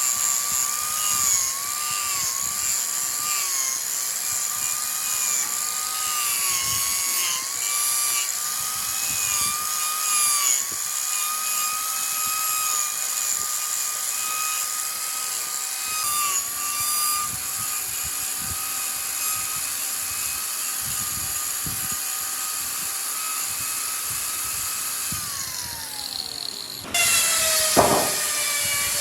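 Electric wood lathe running, with a steady motor whine and the hiss of a tool working the spinning wood. About twenty-five seconds in the whine falls in pitch, and near the end the sound changes abruptly.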